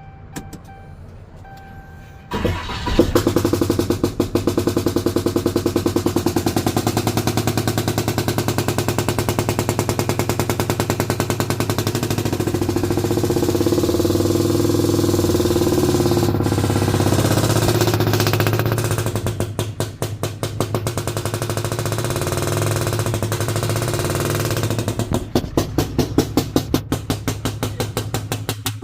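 A 2011 Ram's Cummins 6.7 L diesel engine cranks and catches about two seconds in, then runs steadily with its EGR valve removed. It now starts, confirming that the clogged EGR valve was causing the no-start. Near the end the running becomes more pulsing.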